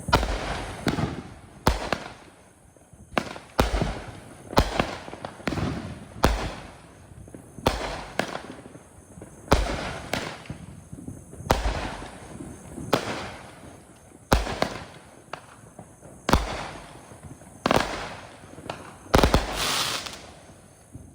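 A 200 gram consumer firework cake from the Sky King Fanatic Series firing shot after shot. There are about twenty sharp bangs roughly a second apart, each fading out after it, with a louder, longer burst near the end.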